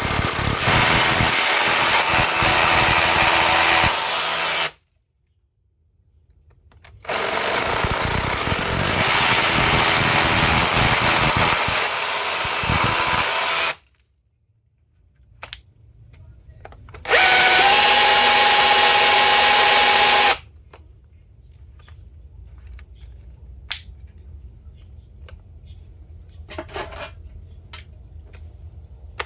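Makita DHR280 cordless SDS-plus rotary hammer running in three bursts of drilling, about five, seven and three seconds long, with short pauses between, then a few light clicks of handling. The hammer drilling with the bit turning shows the repaired rotation drive working.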